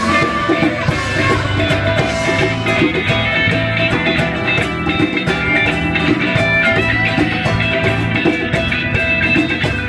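Live rock band playing an instrumental passage, with guitar over bass and drums.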